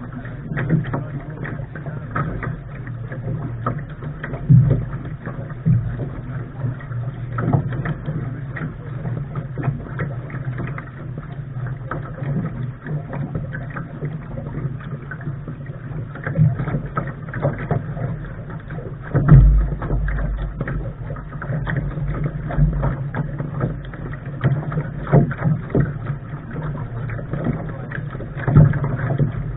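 Wind rushing over the microphone of a camera at the bow of a Lark sailing dinghy, with frequent slaps of water against the hull; the loudest buffet comes about nineteen seconds in.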